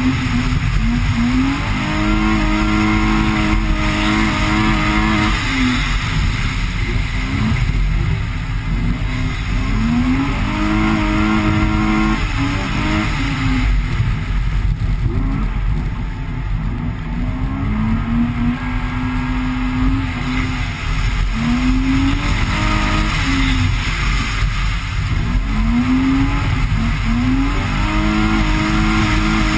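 BMW E30's engine under hard throttle on a snowy track, its revs climbing and then holding about five times, over steady low road and tyre rumble.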